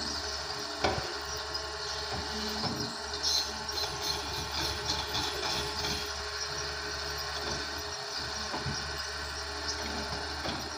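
Doosan excavator's diesel engine running steadily while it works on rubber trees, with a sharp knock about a second in and crackling and rustling of wood and branches in the middle.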